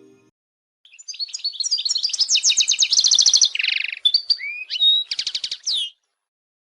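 Goldfinch singing: a rapid twittering song of quick high chirps, trills and slurred notes that starts about a second in and stops shortly before the end.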